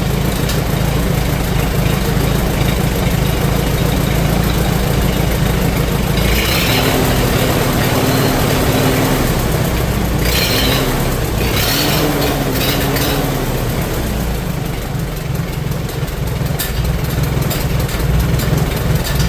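1953 Minneapolis-Moline UB tractor's four-cylinder engine running steadily at idle while the ignition timing is set on its newly refitted Delco distributor, with brief bursts of noise about a third of the way in and again around the middle.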